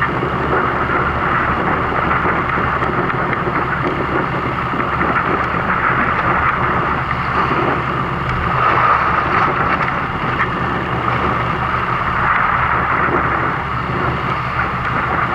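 Fishing boat's engine running steadily, a low hum under a constant rush of wind and water noise.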